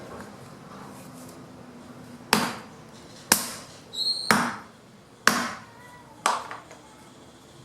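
Fallen branches being chopped into wood chips by hand: five sharp chopping strikes into wood, about one a second, starting a little over two seconds in.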